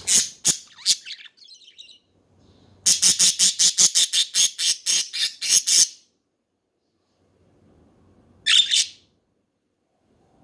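Pet budgerigars calling: a few sharp chirps, then a quick run of about fifteen harsh squawks at roughly five a second over three seconds, and one short squawk near the end.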